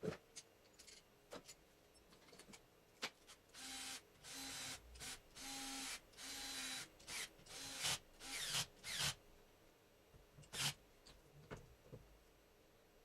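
A run of about eight short rasping, rubbing strokes on an alternator part, each with a faint steady hum, lasting about five seconds; a few sharp clicks and knocks of handling before and after.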